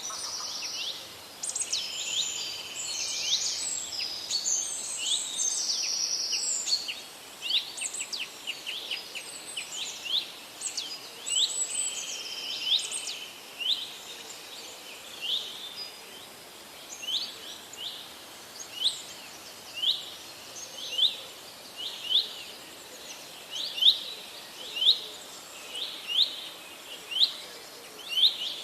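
Several wild songbirds singing at once in a dense, overlapping chorus. About halfway through this thins to one bird repeating a short, high chirp roughly once a second, over a faint steady background hiss.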